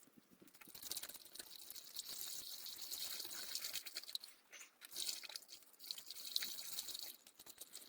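Tosol antifreeze being poured into a cut-off plastic bottle used as a funnel on the cooling-system hose: a splashing, trickling pour that starts about a second in and falters briefly a few times.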